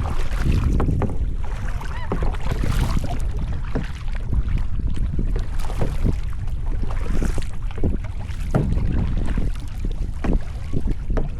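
Wind buffeting the microphone in a steady low rumble, over irregular water splashes and knocks from paddling a sit-on-top kayak.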